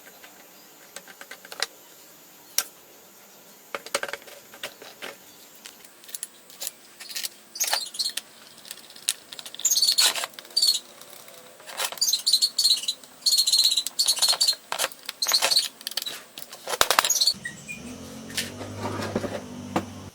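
Metal parts clinking, scraping and knocking during hand work on the old circular saw, in sharp clicks and bursts of bright metallic rasping, with a low hum starting near the end.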